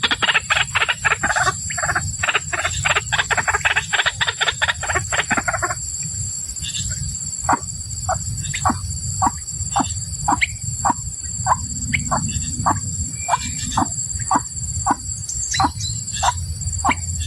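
White-breasted waterhen calls: about six seconds of loud, harsh, rapidly repeated notes, then a slower series of single notes at about one and a half a second. A steady high insect trill runs underneath.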